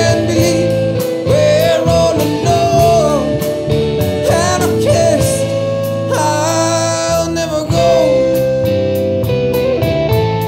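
Rock band playing: electric guitars, bass and drums at a steady beat, with a lead line that bends and slides in pitch over the top.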